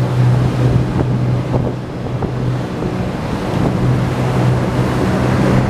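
Motorboat engine running at a steady drone while the hull rushes through the water, with wind buffeting the microphone.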